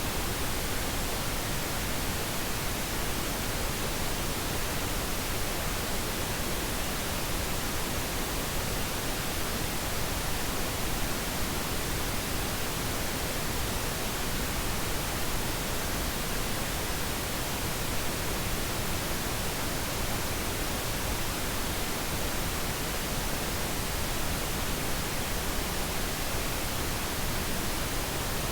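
Continuous synthetic pink noise, a steady even hiss that does not change.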